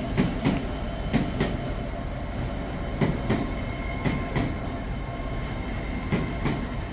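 LNER Class 800 Azuma train rolling slowly into the station over a steady low rumble, its wheels clicking over rail joints in quick pairs, one axle after the other, every second or two, with a faint steady high whine.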